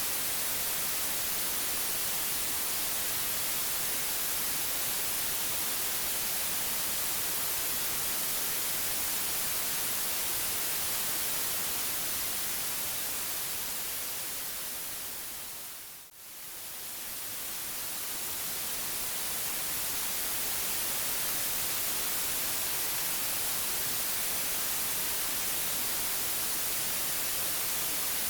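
Steady white noise hiss that fades down to a brief low about sixteen seconds in and then swells back up.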